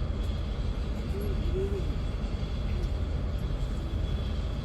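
Jet airliner engines running: a steady low rumble with a faint, constant high whine.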